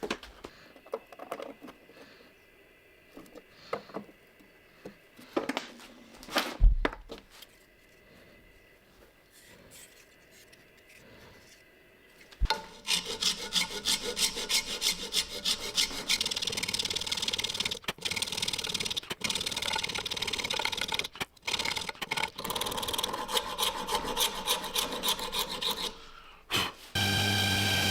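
Scattered knocks and handling noises, one of them a sharp knock about a quarter of the way in. From about halfway, a sustained run of rhythmic back-and-forth strokes of a hand file or rasp scraping on the knife.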